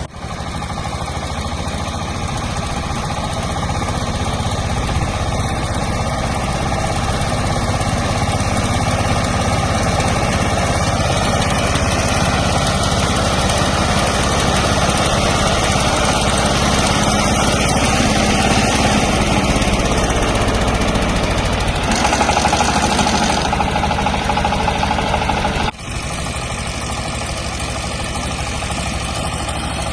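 YTO 240P mini tractor's 24 hp engine running steadily under load, driving a fodder chopper. A steady higher whine joins for a few seconds after the middle, and the sound drops out for a moment near the end before going on.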